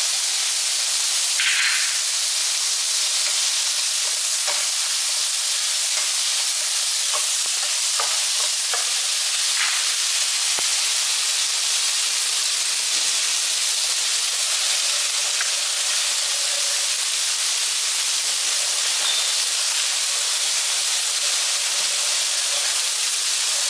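Sliced cucumber, carrot and tomato sizzling in oil and oyster sauce in a frying pan: a steady frying hiss, with a few faint clicks.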